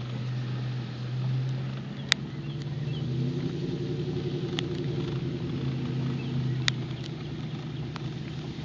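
A car engine running steadily over road noise, with two sharp clicks, one about two seconds in and one near seven seconds.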